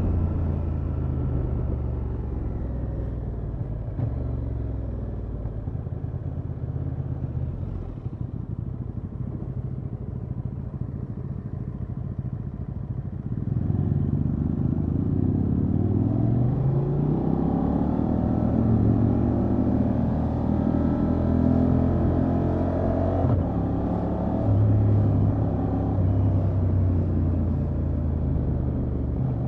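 Honda XL750 Transalp's 755 cc parallel-twin engine through its stock exhaust, running steadily at low revs, then about halfway through pulling harder, its note rising in pitch through repeated climbs as it goes up the gears.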